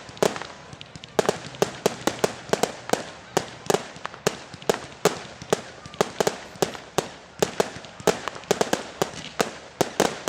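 Fireworks display: a rapid, irregular string of sharp bangs, several a second, with crackling between them.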